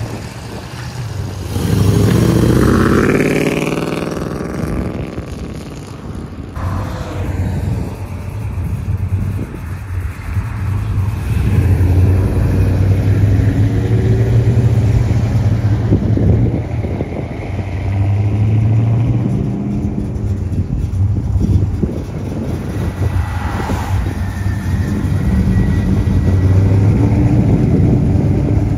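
Car engines running, with one engine swelling in pitch and falling back about two to four seconds in.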